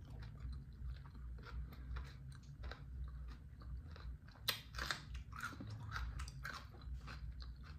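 Close-up chewing and crunching of a lettuce taco wrap (romaine leaves, ground turkey and fresh chopped vegetables), with wet, crackly bites throughout. A sharp, crisp crunch comes about four and a half seconds in, as a whole raw jalapeño is bitten.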